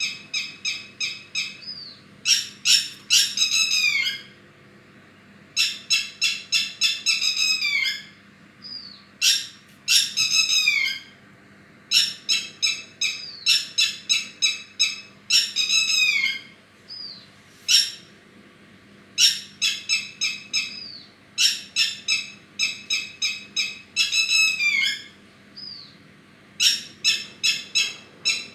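A bird calling in repeated bouts of quick, high notes, each bout lasting about one to two seconds with short pauses between; some notes slide downward.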